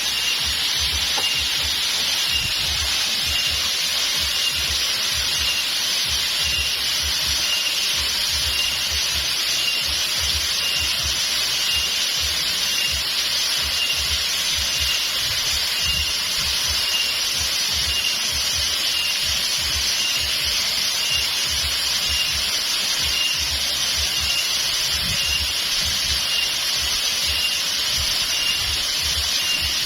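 Steady rush of flowing water, a continuous hiss. A thin, high chirp pulses at an even rate over it, with low rumbling from wind on the microphone underneath.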